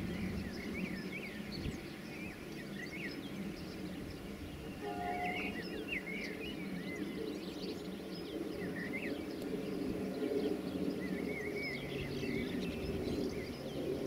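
Small birds chirping and twittering in quick, varied calls over a steady, low background rumble.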